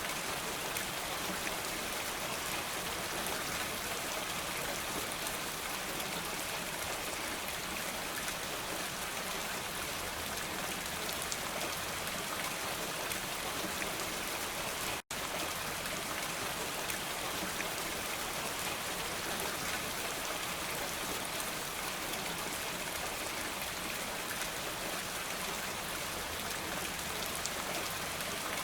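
Steady, even rainfall, with a momentary cut to silence about halfway through.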